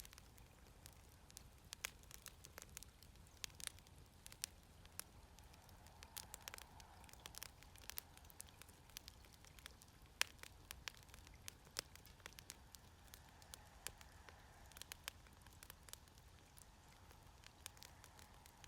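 Wood fire crackling in a Snow Peak fire pit: a quiet run of irregular pops and snaps, a few of them sharper and louder.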